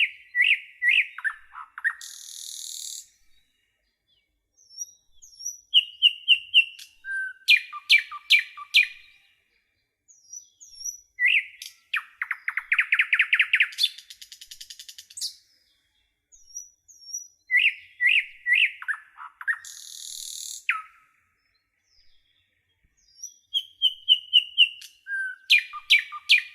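A songbird singing in repeated phrases a few seconds long, with short silent pauses between them. Each phrase mixes high whistled notes, quick runs of chirps and a rapid trill.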